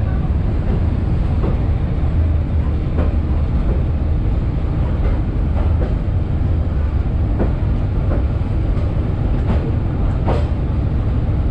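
Passenger coach of the SPT1 train rolling on the rails, heard through the open vestibule door: a steady low rumble with irregular sharp clacks of the wheels over rail joints.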